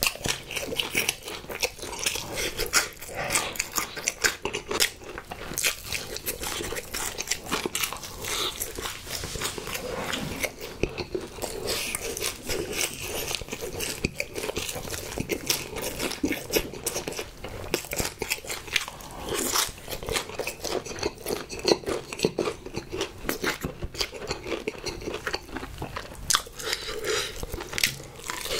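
Close-miked chewing of crispy fried chicken in spicy sauce: a steady run of irregular crunches and mouth clicks, with a fresh bite near the end.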